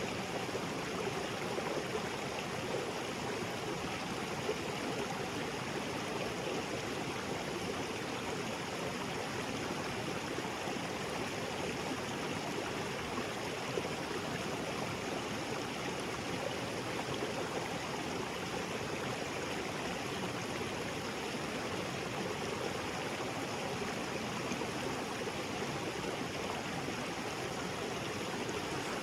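Small waterfall splashing into a rocky jungle creek: a steady, even rush of falling and flowing water.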